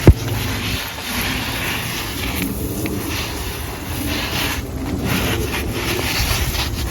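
Garden hose spraying water onto plants, a steady rushing hiss, with a sharp knock right at the start.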